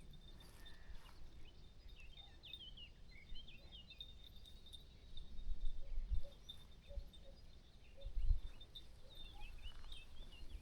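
Quiet countryside ambience: small birds chirping in short bursts, twice, over a thin steady high tone, with a few faint short low notes and some soft low thumps in the middle.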